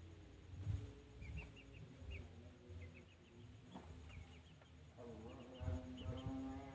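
Faint, short high chirps of small birds, coming in quick groups of two to four again and again. About five seconds in, a low steady pitched hum joins them.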